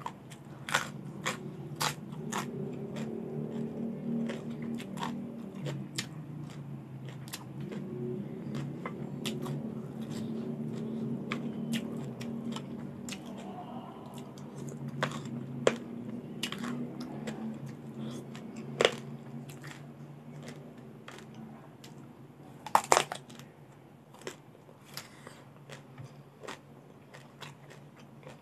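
Close-miked eating: crisp crunching bites and chewing of raw vegetables. The sharp crunches come in clusters in the first few seconds and again after the middle, with the loudest pair a little past three-quarters through; softer mouth sounds lie between.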